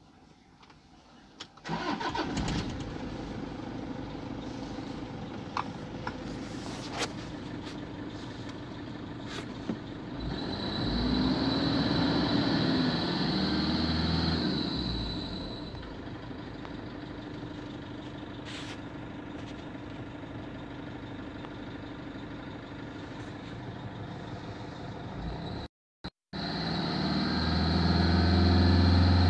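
Toyota Innova engine running, with a camshaft position sensor circuit fault (P0340) logged. It is revved up and back down about ten seconds in, and runs louder at higher revs near the end.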